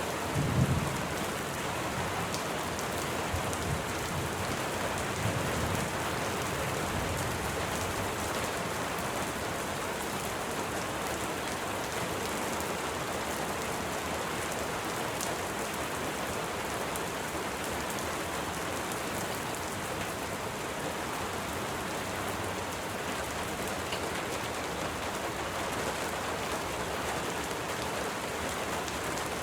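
Steady rain falling, an even hiss. A few brief low thumps come in the first seven seconds, the loudest about a second in.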